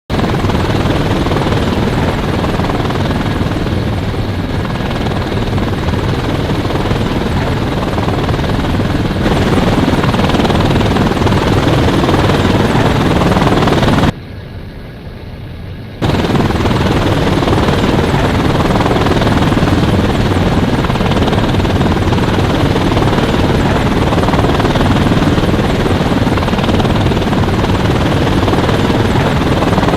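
Helicopter running, a loud steady rotor and engine noise. About halfway through it drops sharply to a much quieter, duller sound for about two seconds, then returns at full level.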